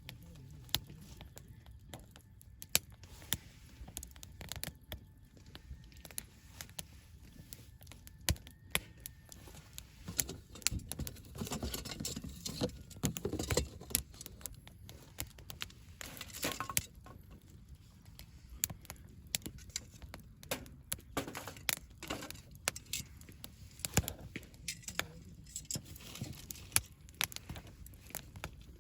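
Wood campfire burning, crackling with frequent irregular sharp pops. A louder stretch of crackling and hiss comes about twelve to fourteen seconds in.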